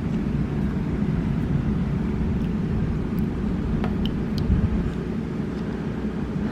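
Steady low rumble of a car in motion, heard from inside the cabin, with a few faint ticks partway through.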